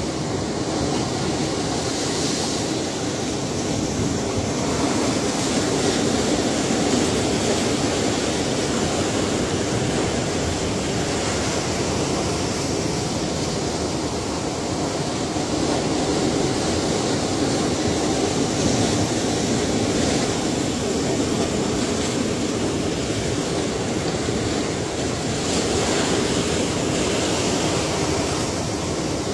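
Ocean waves breaking and washing on a shore, a continuous dense rush of surf that swells and eases every few seconds.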